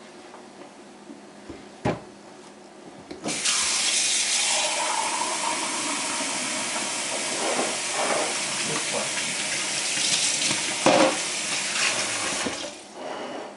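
A kitchen tap runs water into a sink for about nine seconds, starting and stopping abruptly. Shortly before it there is a single knock.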